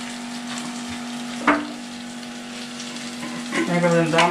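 Chicken curry frying in a pan, a steady sizzle. There is one sharp knock about one and a half seconds in.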